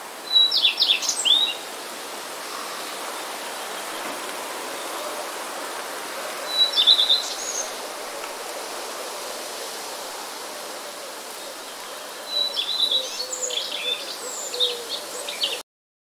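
Bird chirps in three short bouts: a quick run near the start, another around the middle, and a longer, busier run near the end, all over a steady background hiss. The sound cuts off suddenly just before the end.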